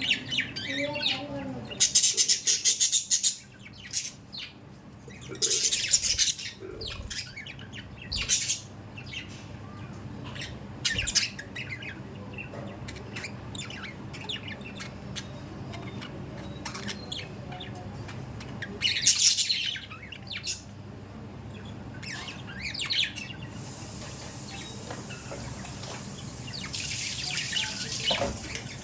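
Budgerigars chattering and chirping continuously, with loud harsh calls breaking out every few seconds.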